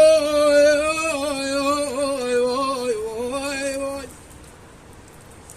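Unaccompanied folk singing: one voice holds a long, ornamented note that wavers in pitch through several turns, then breaks off about four seconds in. A faint steady hiss remains after it.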